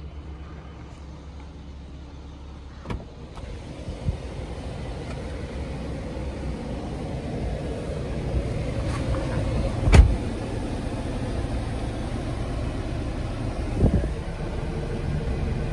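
Car engine idling as a steady low hum, with knocks from handling and two dull thumps, the louder one about ten seconds in.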